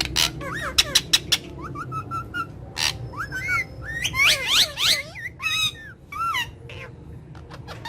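Pet parrots calling: a quick string of sharp clicking calls and short whistled chirps that rise and fall, thickest around the middle.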